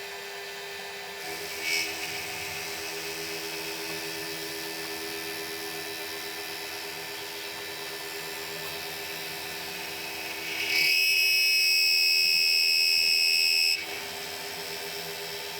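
Milling machine running steadily with a constant hum while the cutter works around a small metal part. About eleven seconds in, a loud high-pitched squeal from the cutting sets in and cuts off sharply some three seconds later.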